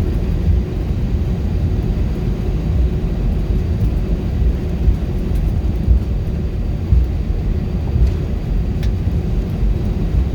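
Airbus A319 cabin noise: a steady, loud low rumble of the jet's engines and airflow, with a faint steady hum running through it.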